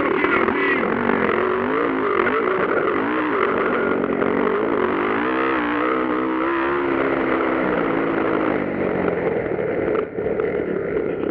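Motocross bike engines revving up and down as the riders race the track, the pitch rising and falling over and over. Several bikes overlap around the middle.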